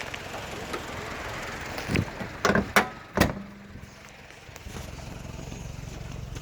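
Nissan Primera P10's carbureted 1.6-litre GA16DS four-cylinder engine idling steadily after a cold start, running smoothly without stalling now that the carburettor's faulty vacuum part has been replaced. Four or five sharp knocks come about two to three seconds in.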